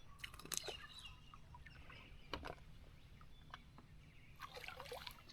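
Faint bird calls, short chirps, with a few sharp clicks and knocks, the clearest about half a second and two and a half seconds in.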